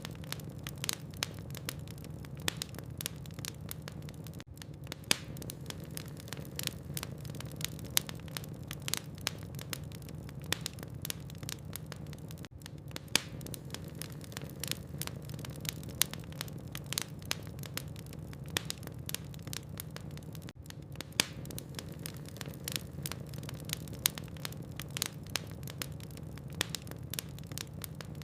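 Wood fire in a fireplace crackling steadily: a dense, irregular run of small sharp snaps with an occasional louder pop, over a low steady hum.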